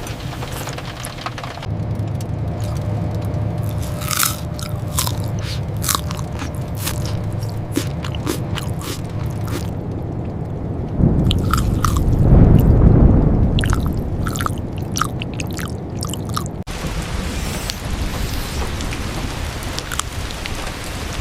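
Crisp crunching clicks over a steady low hum, with a deep rumble that swells and fades about halfway through.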